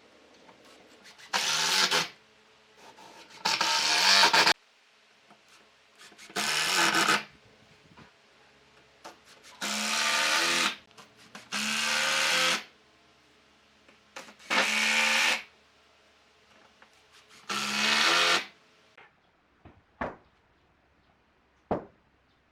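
An electric power tool run in seven short bursts of about a second each, with pauses between them, its motor pitch rising and falling within each burst. A couple of faint knocks near the end.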